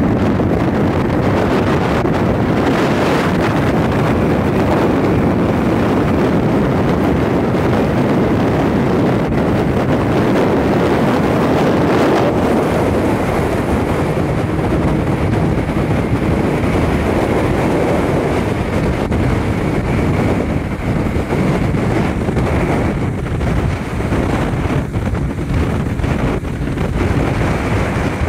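Small motorboat under way with its Evinrude 40 H.O. outboard running, heavy wind buffeting the microphone over the engine and water rushing along the hull. It gets slightly quieter and more uneven about halfway through.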